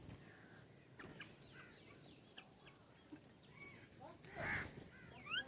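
Birds chirping: many short, scattered chirps and calls, with a louder burst about four and a half seconds in and a few quick rising chirps near the end.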